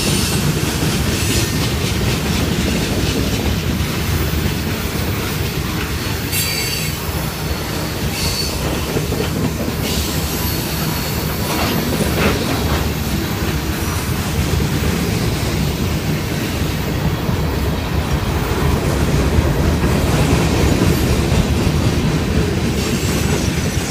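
Freight train cars rolling past at close range: a steady heavy rumble of steel wheels on rail, with a few short high-pitched wheel squeals in the middle.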